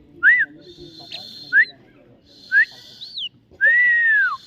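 A pet myna giving a series of short, loud, arching whistles mixed with harsh rasping notes, ending in a longer whistle that rises and then falls.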